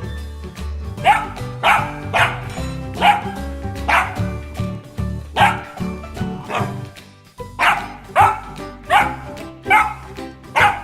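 A dog barking over and over, roughly one to two sharp barks a second with a short break about seven seconds in, over background music.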